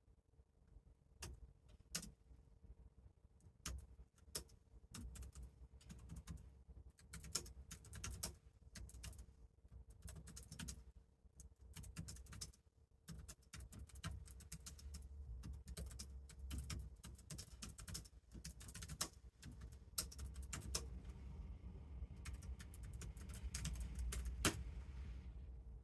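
Typing on a computer keyboard: irregular runs of key clicks with pauses between them, over a faint steady hum.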